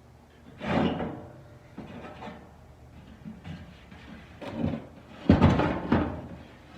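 Metal knocks and clatter as furnace blower parts are handled and fitted during reassembly. One sharp knock comes near the start, and a louder run of clunks and rattling comes near the end.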